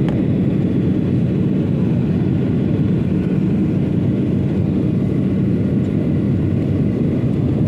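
Steady drone of an airliner's cabin noise, engines and airflow, heard from inside the cabin during the descent to land. The level stays even throughout.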